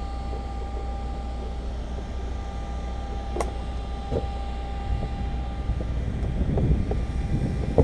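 Steady low mechanical hum with a faint steady whine, a single sharp click about three and a half seconds in, and light knocks growing toward the end.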